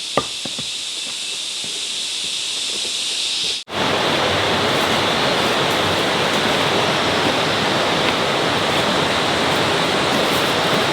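Steady rushing water, an even dense noise that starts after a cut about three and a half seconds in. Before it there is a thinner high hiss with a sharp click near the start.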